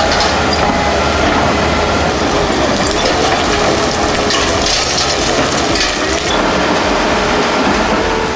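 Heavy industrial shredder running under load, grinding and tearing material, with a dense continuous clatter and wavering metallic squeals.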